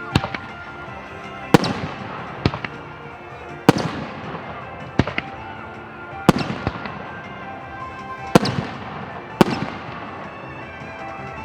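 Aerial firework shells bursting, about eight sharp bangs one to two seconds apart, each followed by a fading crackling hiss, over background music.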